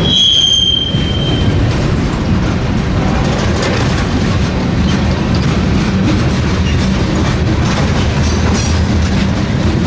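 Freight train rolling past, a steady heavy rumble of wheels on rail. A high wheel squeal rings out at the start and fades after about a second and a half.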